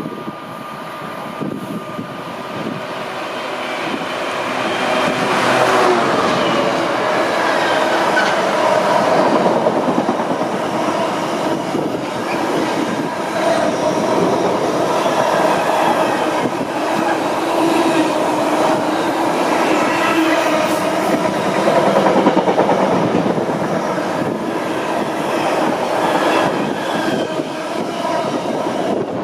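A train running through the station without stopping, growing louder over the first six seconds or so and then staying loud as it passes.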